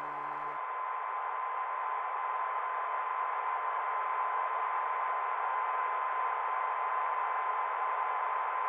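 Steady radio-style static hiss with a single steady high tone running through it, which takes over as piano music cuts off about half a second in.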